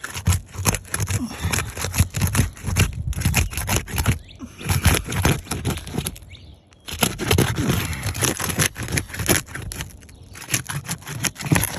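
A hand tool scraping and prying under asphalt shingles, with a rapid, irregular run of clicks, crackles and scrapes as the shingle's seal and nails are worked loose.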